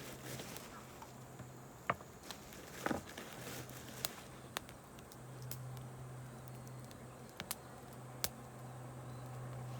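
Wood campfire crackling, with scattered sharp pops every second or so over a steady low hum.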